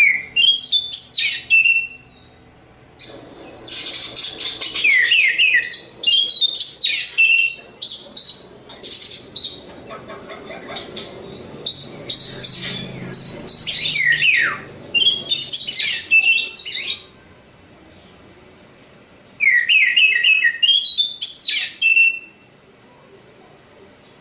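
Oriental magpie-robin singing a varied song of falling whistles, quick slurred notes and rasping passages, delivered in phrases with short pauses between them.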